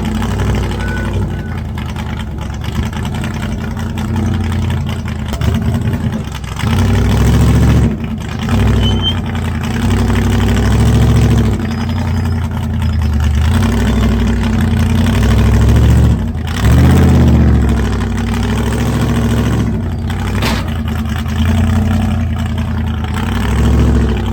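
An off-road rig's engine climbing rocks: running at a low steady speed, then revving in repeated surges of throttle from about six seconds in, with brief lifts near eight and sixteen seconds.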